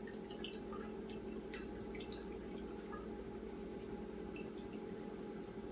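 Orange being juiced by hand, with scattered faint drips and squishes of juice over a steady low hum.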